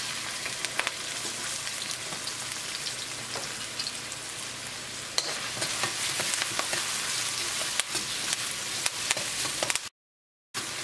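Chopped onion, garlic, green chillies and curry leaves sizzling in hot coconut oil in a steel wok. A spoon stirring them clicks and scrapes against the pan, more often from about five seconds in. Near the end the sound drops out to silence for about half a second.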